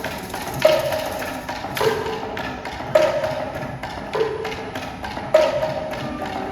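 Percussion ensemble playing. A loud pitched stroke falls about every 1.2 s, alternating between a higher and a lower note, over quicker light tapping.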